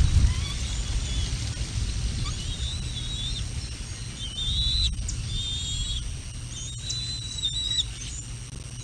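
Wind buffeting the outdoor nest-camera microphone in a steady low rumble, with birds giving many short, high chirps and whistled phrases over it.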